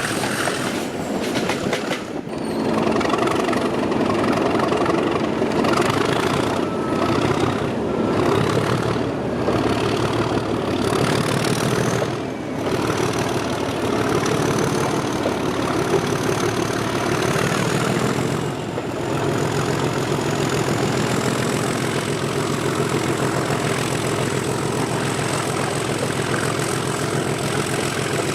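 English Electric 12CSVT V12 diesel engine of Class 37 locomotive 37109 running steadily under power, heard from the train behind it. The engine note eases briefly three times, and a thin high whistle rises gently over it in the middle.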